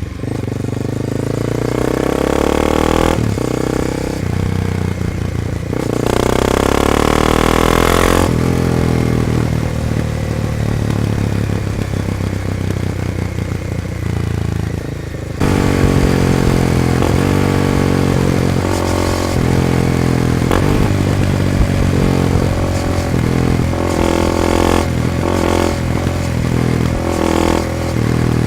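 Honda CBR300R single-cylinder engine heard close at the exhaust, its note rising and falling with the throttle and getting louder and choppier from about halfway. The exhaust has a slightly raspy, sharp edge, which the owner puts down to the silencer's fibreglass packing being nearly worn out.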